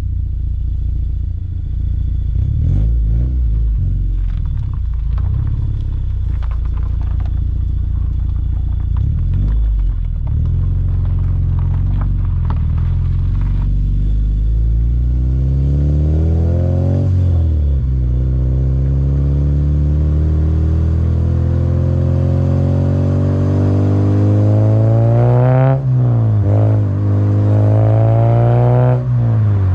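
Honda Civic Si K20 inline-four exhaust, breathing through a Skunk2 Alpha header and Full Race 3-inch exhaust, cruising at low revs and then pulling hard through the gears. In the second half the revs climb and drop back at each upshift, three times.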